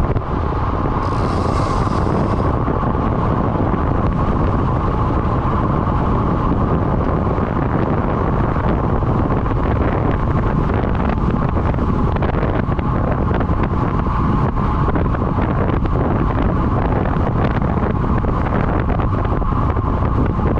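Heavy, steady wind noise buffeting the microphone of a camera moving at riding speed on a road bike, with a brief hiss about a second in.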